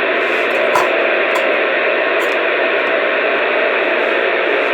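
Steady radio static: an even hiss with a faint hum from a receiver on an open channel, with no voice coming through.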